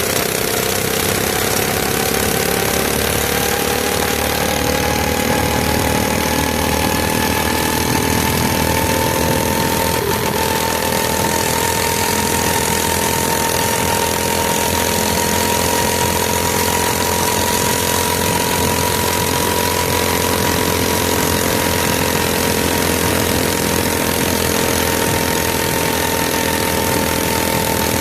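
Mini bike's small engine running steadily under way, its pitch climbing slowly over the first ten seconds or so as it gains speed, then holding level.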